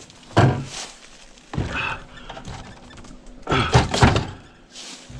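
Irregular dull thumps and knocks, a few spaced apart and then several close together about three and a half to four seconds in.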